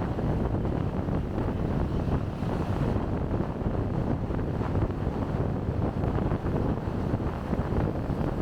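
Wind buffeting the microphone of a chest-mounted camera on a moving motorcycle: a steady low rumble with road and traffic noise beneath it.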